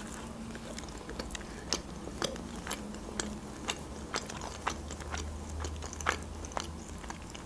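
A person biting into and chewing a slice of homemade pizza, a run of irregular small clicks from the mouth.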